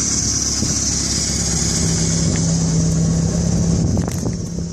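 Strong wind buffeting the microphone in a snowstorm, a steady rushing noise with a low rumble, under a steady low hum. A few short knocks near the end.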